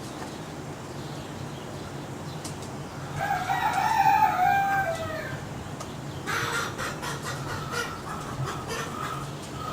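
A rooster crows once, a drawn-out call of about two seconds that drops in pitch at the end, starting about three seconds in. It is followed by shorter clucks and calls from chickens over a steady low hum.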